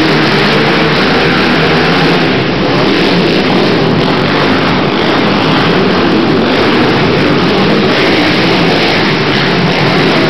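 Several racing quad (ATV) engines running hard, rising and falling in pitch as they rev, loud throughout.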